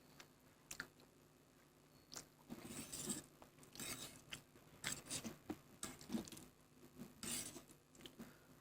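A person eating Maggi instant noodles close to the microphone: slurping and chewing in irregular bursts with small wet clicks, busier after the first couple of seconds.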